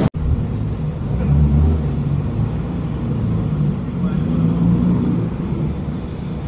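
A car engine running with a low rumble, swelling louder about a second in and again around four seconds.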